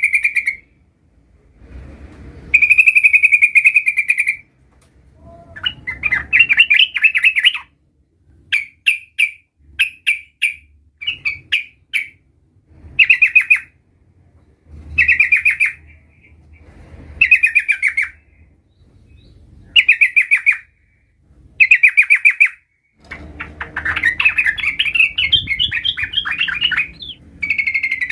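Yellow-vented bulbul (trucukan) singing: short, rapid trilled phrases repeated every couple of seconds, with a longer run near the end.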